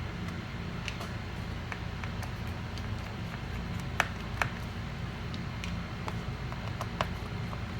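Small clicks and taps of a pentalobe screwdriver and its tiny screws as the back-cover screws of a MacBook Air A1466 are taken out, with sharper clicks about four seconds in and again near seven seconds, over a steady low hum.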